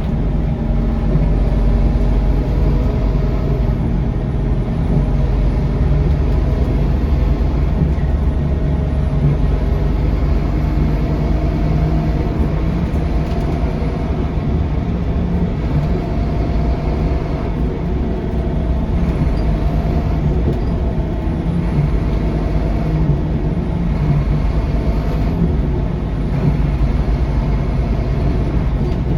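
Scania K230UB city bus heard from inside the cabin while driving: a steady low engine and drivetrain rumble with a hum that rises and falls gently in pitch as the bus changes speed.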